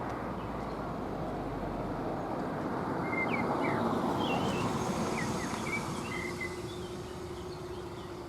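A train passing by, its running noise swelling to a peak about four seconds in and then fading. Birds chirp throughout.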